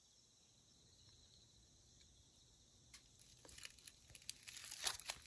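Faint steady chirring of insects. From about three seconds in, crinkly rustling with sharp crackles builds up, loudest near the end.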